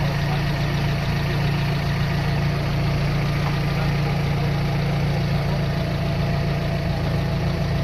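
Carbureted car engine idling steadily with its air conditioning switched off, while its idle speed is being adjusted down after the vacuum lines were corrected.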